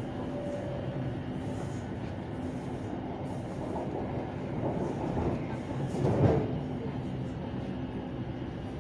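BTS Skytrain carriage running along the elevated track, heard from inside the car: a steady rumble with a low hum, which swells briefly louder about six seconds in.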